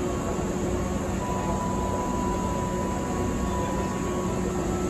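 Steady hum of the Hankyu Kyo-train Garaku train at the platform, with a few faint held tones over an even noise.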